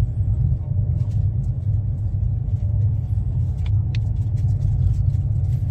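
Passenger train running at speed, heard from inside the coach: a steady low rumble from the wheels and running gear, with faint clicks scattered through it.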